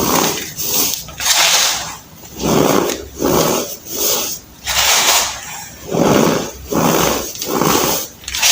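Baking soda being crushed in a steady series of crunches, about one and a half a second.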